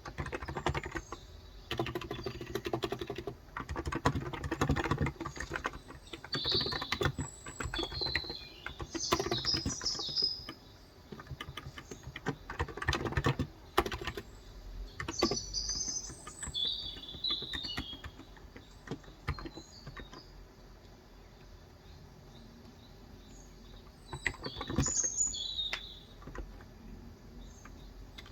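Typing in bursts on a Cox Endeavor electro-capacitive 35 g tenkeyless keyboard, the keystrokes dense for the first half, thinning out, then pausing for a few seconds before a short burst near the end. Birds chirp in the background throughout.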